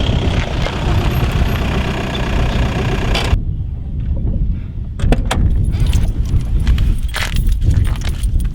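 Strong wind buffeting the microphone, a loud low rumble, with an abrupt change about three seconds in; from about five seconds on, a run of sharp clicks and rattles over the wind.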